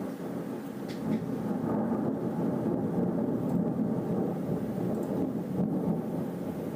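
Rolling thunder: a long, low rumble that swells about a second in and stays strong.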